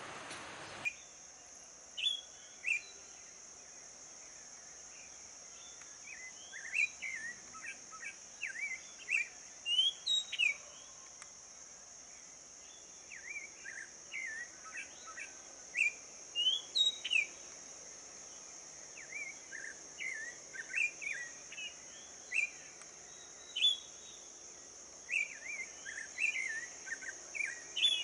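Several birds chirping in quick, short notes that come in scattered clusters, over a steady high-pitched drone of insects.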